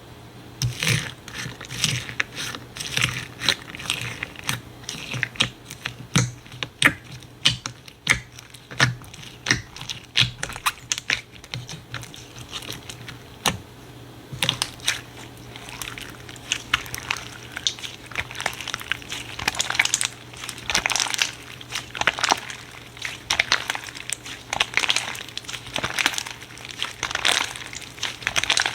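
Slime being squeezed and pressed by hand, giving a dense, irregular run of sharp crackles, pops and clicks.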